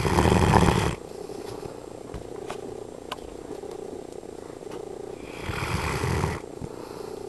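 Sleeping dog snoring: two loud snores about five seconds apart, each about a second long.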